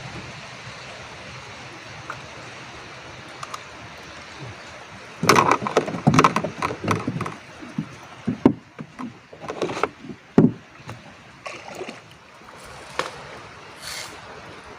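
Water splashing and sloshing in a quick, irregular run of bursts from about five seconds in until about eleven seconds, with a few fainter splashes after, over a steady hiss.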